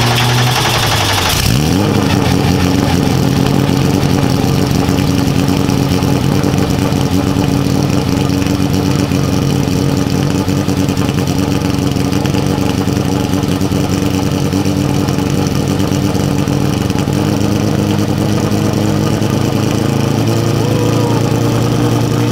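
Porsche 996 GT3 Cup race car's flat-six engine running steadily at idle. Its note rises to a slightly higher steady speed about a second and a half in and settles back lower near the end.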